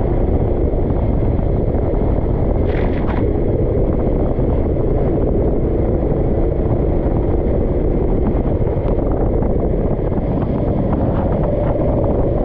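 Small kart engine running steadily under way, its pitch wandering slightly, with heavy wind buffeting on the microphone and a brief crackle about three seconds in.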